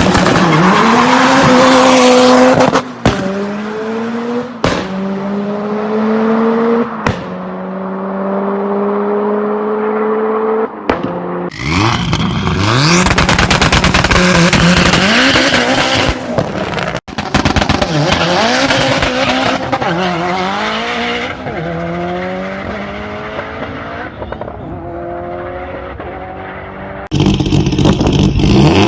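Several short runs of a turbocharged Subaru Impreza WRX STI flat-four engine accelerating hard. In each run the engine note climbs steadily, then falls back at a gear change and climbs again, with abrupt jumps between runs.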